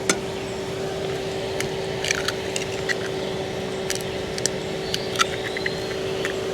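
Electric fan running with a steady hum, with scattered sharp clicks and taps over it.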